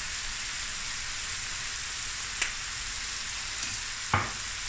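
Chicken and stir-fry vegetables sizzling steadily in hot oil in a stainless steel pan on high heat. Two short knocks sound over it, about two and a half and four seconds in, the second louder.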